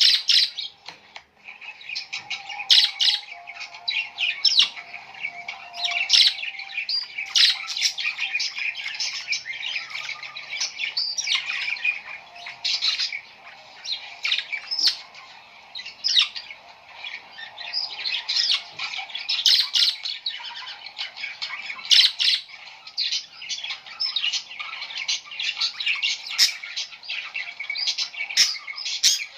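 A flock of birds chirping and calling at once: many short, overlapping high calls with no pause.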